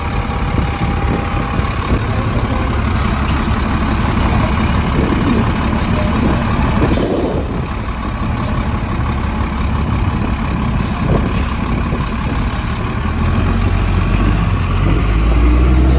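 City transit bus engine running close by, with short bursts of air hiss from its air brakes and pneumatics about three, seven and eleven seconds in. The engine grows louder near the end as a bus pulls away.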